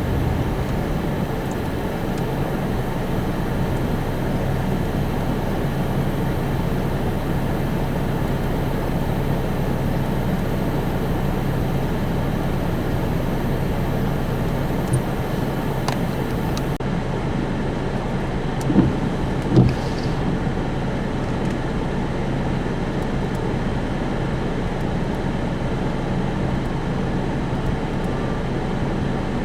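Steady road noise of a moving car heard from inside the cabin, a low hum of engine and tyres, with two short bumps a little past halfway.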